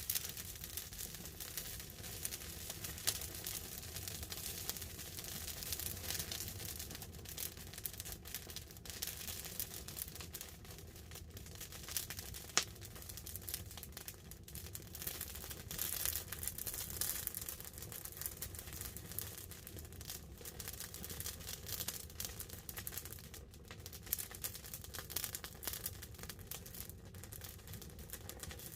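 Wood campfire crackling and popping steadily, with a sharper pop about halfway through, over a soft hiss of light rain on a tarp.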